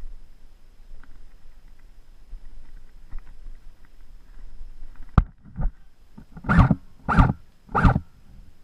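Footsteps crunching through dry leaf litter close to the microphone: faint rustles at first, a sharp click about five seconds in, then three loud crunching steps in a steady rhythm near the end.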